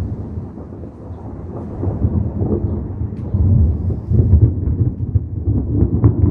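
Thunder rumbling in a long, deep roll that swells about two seconds in and again past the midpoint.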